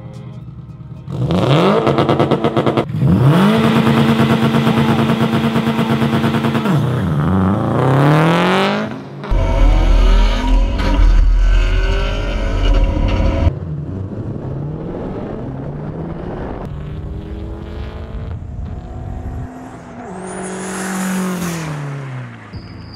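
Subaru cars launching and accelerating hard in a drag race, engines revving, their pitch climbing and dropping at gear changes. Partway through comes a heavy low rumble heard from inside a car. Near the end a car drives past, engine note rising and then falling.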